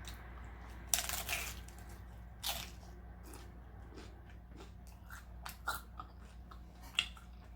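Someone biting into and chewing a crunchy taco shell: a crunch about a second in, another about two and a half seconds in, then fainter chewing clicks.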